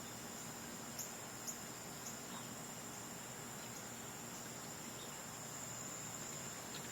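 Faint, steady, high-pitched insect trill, like crickets, with a few brief high chirps scattered over it.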